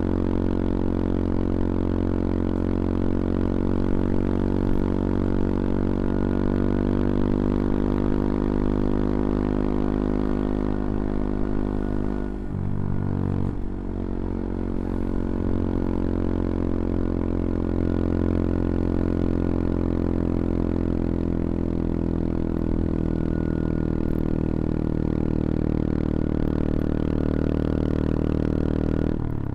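CFMoto Papio XO-1's small single-cylinder engine running at steady revs while riding. The revs dip briefly and come back about halfway through, and again near the end.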